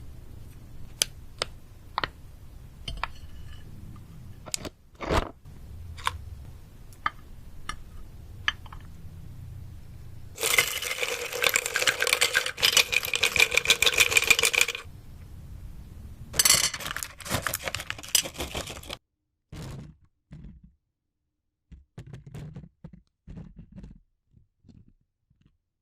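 Close-miked eating of jelly and gummy candy: sharp wet mouth clicks and chewing, with a loud crackling stretch of several seconds about halfway through and a shorter one soon after.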